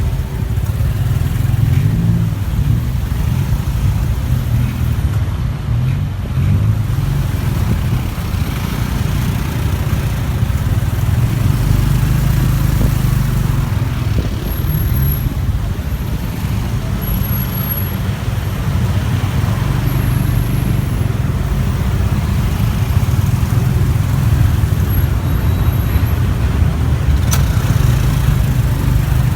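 Motorcycle engine running steadily while riding, heard from on the bike, with road traffic around it.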